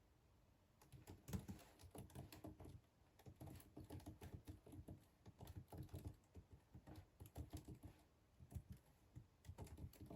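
Faint typing on a computer keyboard: a quick, irregular run of key clicks starting about a second in, with a short pause about two-thirds of the way through.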